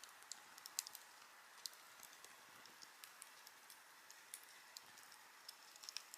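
Wood fire crackling: quiet, irregular sharp pops and snaps over a soft steady hiss.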